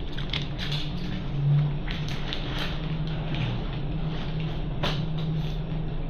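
A vehicle running: a steady low hum under a noisy wash, with scattered light clicks and taps.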